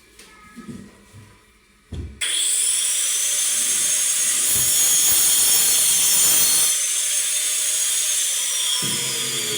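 A handheld electric power tool starts about two seconds in, its motor whine rising in pitch, then runs steadily while cutting wood; near the end the whine slowly falls. Faint knocks come before it starts.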